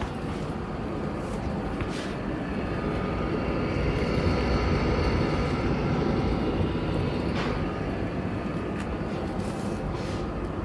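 Roborock Q Revo docking station's mop-drying blower fan running noisily: a steady whirring with a faint whine over it, a little louder in the middle. The fan has suddenly turned loud, a fault that may lie in the fan itself, a module or the logic board.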